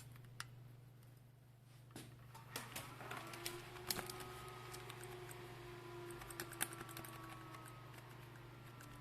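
Repaired motherboard powering up on the bench: a faint steady hum, with a fan whir starting about three seconds in and holding, and scattered light clicks of keys and handling.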